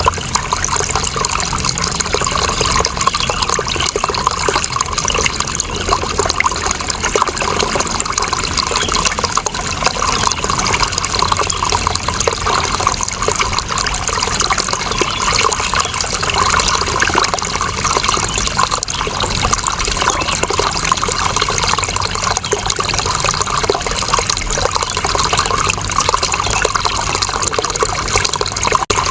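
Water running steadily in an even, unbroken trickling flow.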